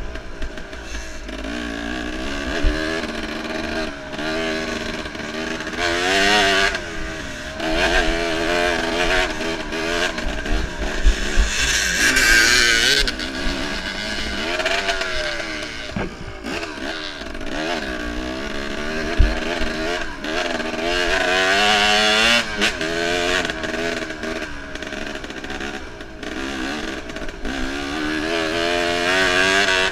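Enduro motorcycle engine heard from on board, its pitch rising and falling constantly as the throttle is worked over rough terrain. A few sharp knocks and clatters come from the bike hitting bumps.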